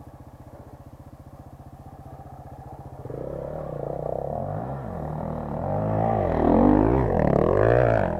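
Enduro motorcycle engine ticking over with an even beat. About three seconds in it opens up and gets much louder, its pitch rising and falling several times as the throttle is worked, with the rider pulling away hard.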